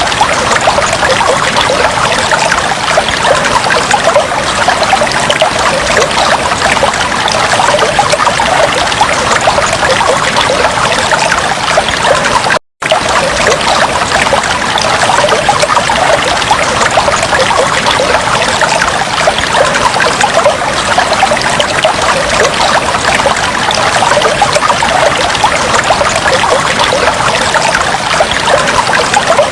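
Aquarium water bubbling and trickling steadily, a dense patter of small bubbles and splashes. The sound cuts out completely for a split second about twelve seconds in.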